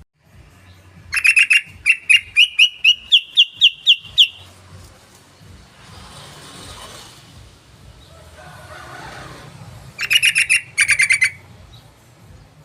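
Yellow-vented bulbul (trucukan) calling: a quick run of about ten sharp notes that climb steadily in pitch, then near the end a second short, rapid burst of chattering notes.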